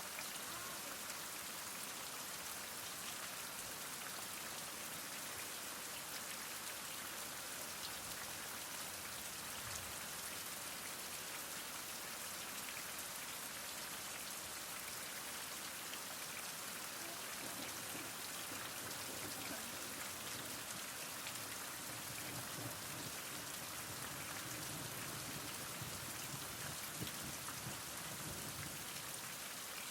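Steady heavy rain falling, a dense even hiss with many fine drop patters, with a faint low rumble in the background in the latter part.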